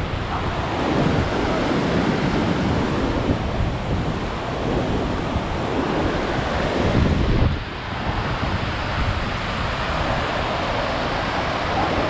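Waterfall and river water rushing as a steady, dense noise, with wind buffeting the microphone. The sound drops briefly about two-thirds of the way through.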